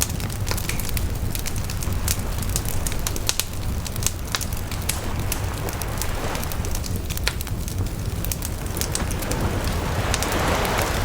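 Bonfire of burning wood crackling, with frequent irregular sharp snaps and pops over a steady low rumble. A soft rushing swell rises near the end.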